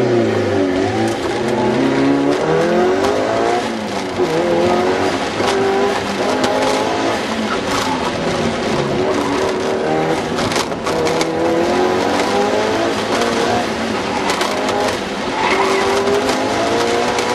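Mitsubishi Lancer Evolution's turbocharged four-cylinder engine, heard from inside the cabin, revving up and dropping back again and again as the car is driven hard through an autocross course, with scattered sharp clicks.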